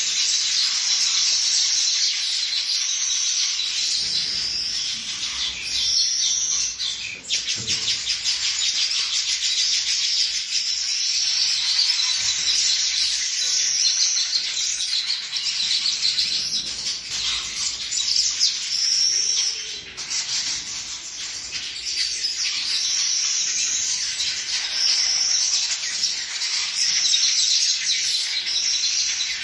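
Baya weaver birds chirping and chattering, with a steady stream of high chirps and short repeated call phrases.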